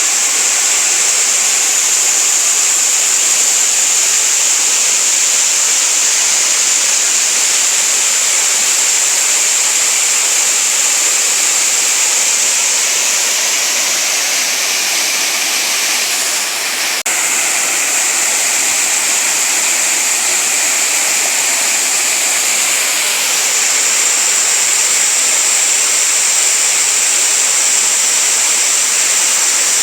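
Waterfall water falling and rushing in a steady, loud, continuous rush, with a momentary dip a little past halfway.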